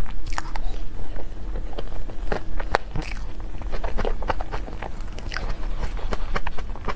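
Close-miked eating of dessert: a person biting and chewing, with many irregular small wet clicks and a little crunch.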